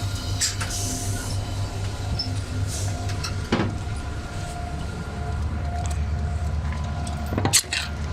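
Train engine running with a steady, pulsing low rumble, with a sharp knock about three and a half seconds in and a louder one near the end.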